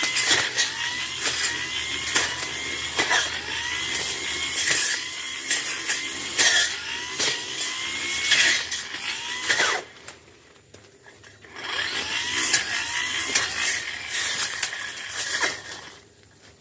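Tanzu brush cutter running at high throttle, its engine note dipping and climbing back again and again as the cutting head bites into brush, with sharp hits of stems being struck. About ten seconds in the engine eases off for a second or two, then revs back up and eases off again near the end.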